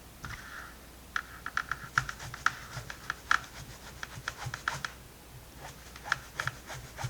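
Quick, irregular scratching strokes of a hand tool scraping old peeling finish off an ottoman's covering, starting about a second in.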